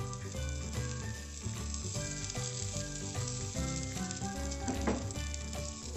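Omelette batter of egg over a bacon-and-tomato filling, sizzling steadily in a hot oiled nonstick frying pan. Background music with changing notes plays over the sizzle.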